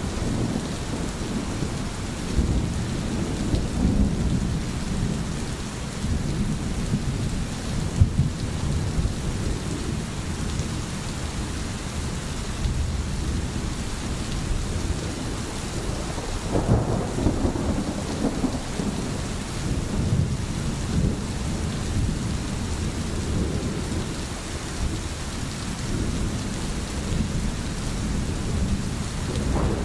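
Steady rain, with low thunder rumbling underneath that swells a few seconds in and again just past the middle.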